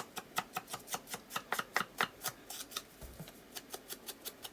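Ink blending tool brushed in quick strokes around the edges of paper pieces to distress them, a rapid even run of short scratchy ticks, about five a second.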